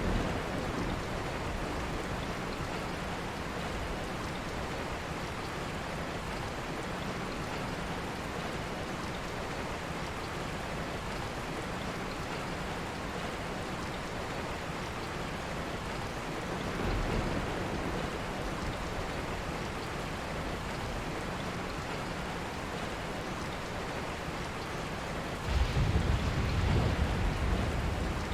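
Steady rain falling, an even hiss of drops. A short low rumble comes about halfway through, and a louder, deeper rumble lasts a couple of seconds near the end.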